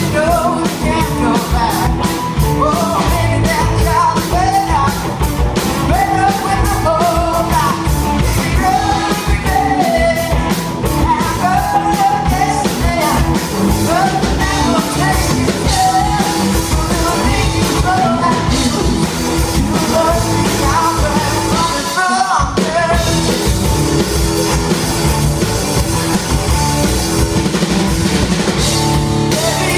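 A rock band playing live: a drum kit and a singing voice over a full band, with a brief stop about two-thirds of the way through before the band comes back in.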